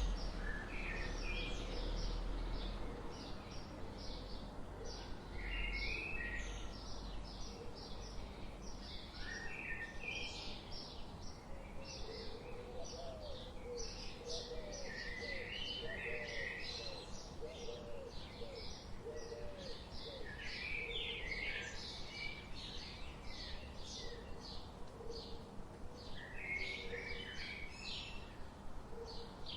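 Many songbirds chirping and calling in a forest, dense short high notes overlapping throughout. About twelve seconds in, a lower call repeats quickly for several seconds.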